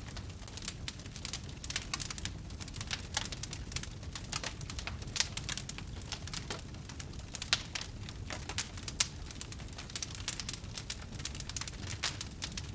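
Wood fire crackling: a quick, irregular stream of sharp snaps and pops over a steady low rumble.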